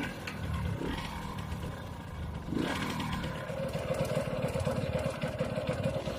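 Yamaha YSR50 minibike's small two-stroke single-cylinder engine running. About two and a half seconds in, it settles into a steady rapid pulse.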